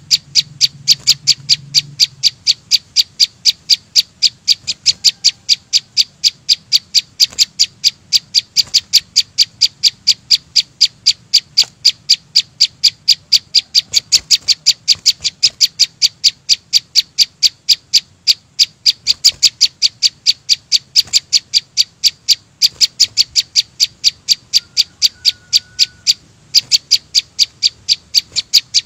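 A small songbird calling one short, sharp, high note over and over, about three times a second, without a break.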